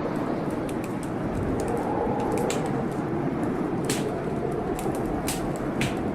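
Wood fire crackling in a fireplace, with sharp pops every second or so, over the steady rush of blizzard wind.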